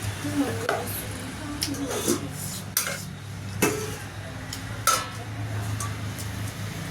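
Dishes and eating utensils clinking against plates during a meal: about six short, sharp clinks spread over several seconds, over a steady low hum.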